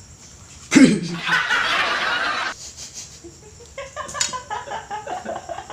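People laughing: a loud burst with falling pitch just under a second in, breathy laughter for about a second after it, then lighter chuckling in short pulses near the end.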